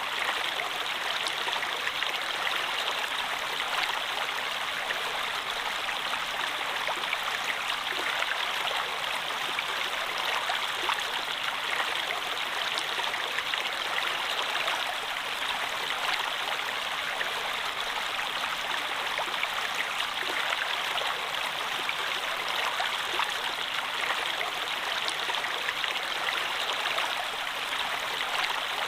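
Steady running water of a stream, an even rushing wash with fine splashing and trickling detail.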